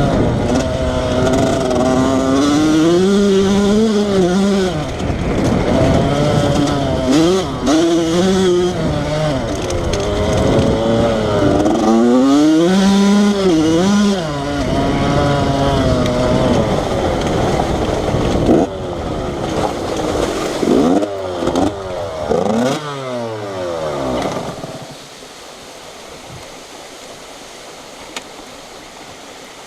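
Dirt bike engine revving up and down over and over, its pitch climbing and dropping as the throttle is worked. It dies away about five-sixths of the way through, leaving a steady, quieter hiss.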